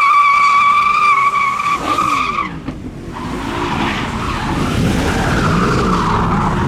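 Car tyres squealing, a steady high-pitched screech that stops about two and a half seconds in, typical of a burnout or donut. The engine then keeps running, its revs rising and falling.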